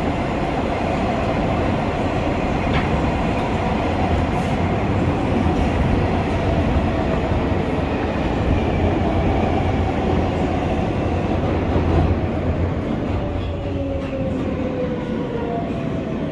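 R143 subway train running with a steady rumble of wheels on rail. In the latter part the traction motors' whine falls in pitch as the train slows.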